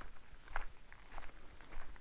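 Footsteps of a person walking on a forest path at an even pace, about three steps, one a little more than every half second.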